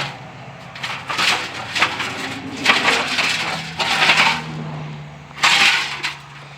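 Old rusty exhaust pipe and muffler being dragged out from under a pickup, scraping and clanking against metal in several irregular bursts.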